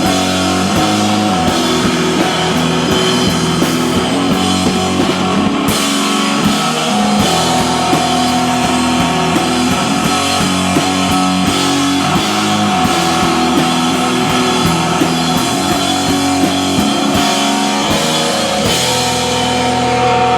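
Live rock band playing loudly: guitars holding chords over a drum kit with steady cymbal strokes.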